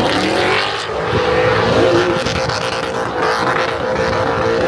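A V8 car engine revving hard and held at a steady high pitch during a burnout, over the rasp of spinning tyres.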